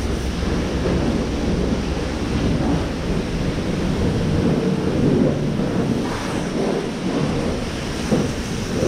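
Pressure washer spraying water against a fiberglass truck camper shell: a steady spray noise.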